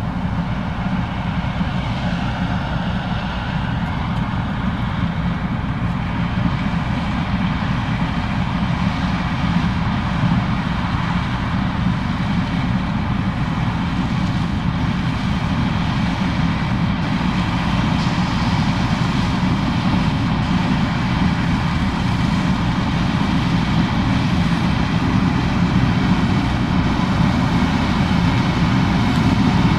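Case IH 2366 combine harvesting corn: its diesel engine and threshing machinery running steadily under load, gradually growing louder.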